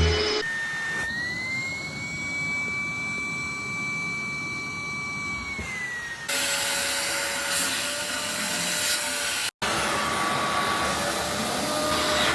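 Vacuum cleaner running: a steady rushing noise with a high motor whine. The whine rises slightly in pitch a couple of seconds in, falls away near six seconds, and the sound changes abruptly there and again after a brief dropout about nine and a half seconds in.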